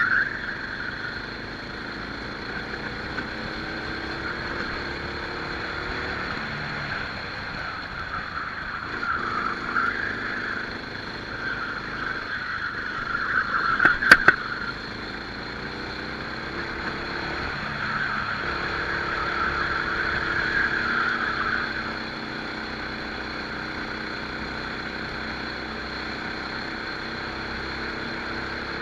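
Rental kart engine heard from the onboard camera during a race lap, its revs climbing and dropping again and again through the corners. There is one sharp knock about halfway through.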